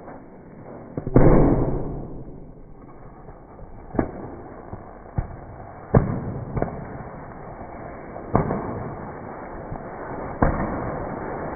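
Homemade hybrid rocket motor (sucrose-PVA-potassium nitrate fuel) on a static-fire test: a loud bang about a second in that dies away slowly, then sharp pops every second or two.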